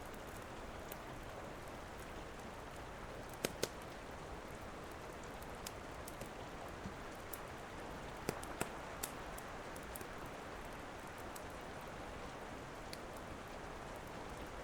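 Steady rain hiss with a wood fire crackling over it: scattered small ticks and a few louder pops, two about a quarter of the way in and a few more just past halfway.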